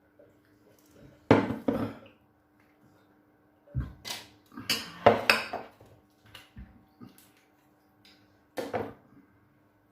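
Cutlery and dishes clattering in a few short bursts, as at a meal.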